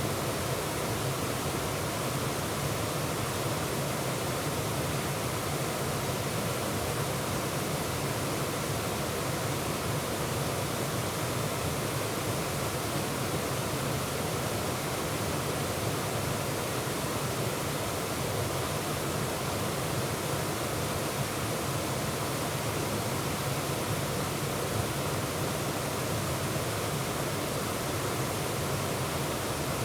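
Waterfall pouring: a steady, unbroken rush of falling water heard close to the falls.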